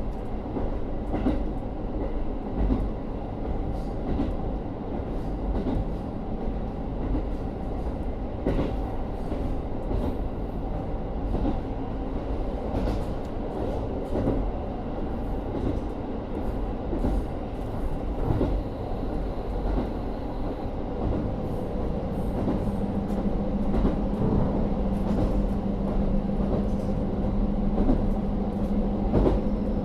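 JR Hokkaido KiHa 40 diesel railcar running along the line, heard from inside the car: the N-DMF13HZB diesel engine and the wheels on the rails make a steady running noise with faint scattered clicks. A steady low drone grows stronger about two-thirds of the way through.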